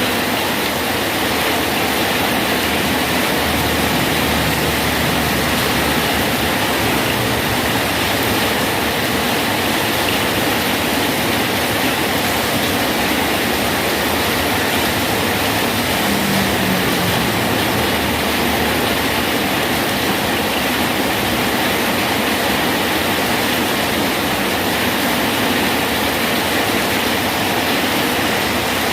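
Steady rain falling on a bridge: an even, unbroken hiss that holds the same level throughout.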